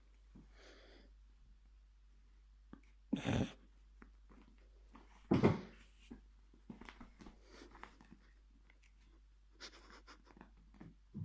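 A cat playing with a piece of string: quiet scuffles and light taps. Two short, louder rustling bursts come about three and five and a half seconds in, and a weaker one near the end.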